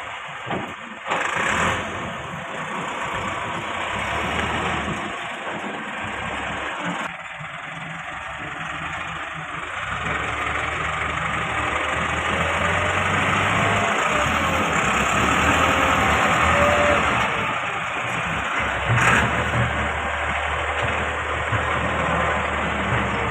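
Diesel tractor engine running steadily, with a brief knock about a second in and another later on.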